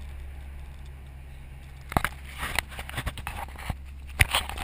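A car engine's steady low drone. From about two seconds in, irregular sharp crackles and knocks come in over it.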